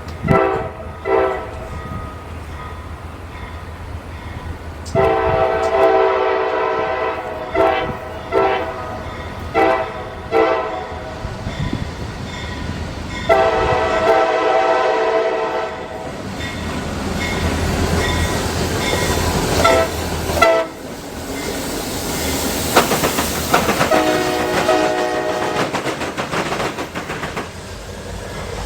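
Diesel freight locomotive's air horn sounding a pattern of short toots and long blasts, over the rumble and clatter of the train moving along the track. Later the train noise rises to a loud roar as it passes close, with one more horn blast near the end.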